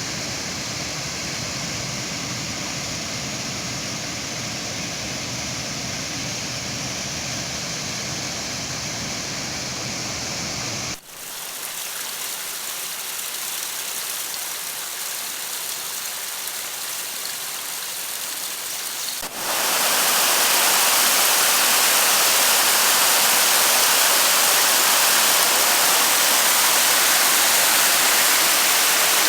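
Rushing water of the Rufabgo creek's waterfalls, a steady rush with no pitch. It changes abruptly twice: about eleven seconds in it thins to a lighter hiss with less depth, and about nineteen seconds in it jumps to a louder, brighter rush.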